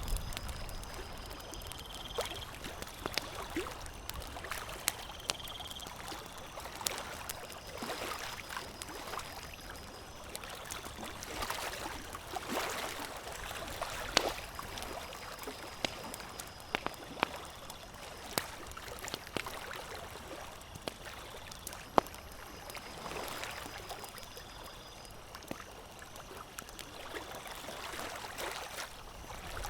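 Campfire crackling: irregular sharp pops and snaps over a steady hiss of flames, with the fire swelling in a soft whoosh now and then. A faint high trill repeats in the background.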